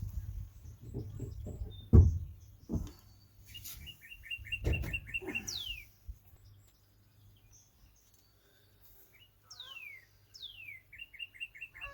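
A songbird singing outdoors: falling whistled notes and a rapid trill of short notes, heard twice. A few low thumps or knocks are mixed in, the loudest about two seconds in.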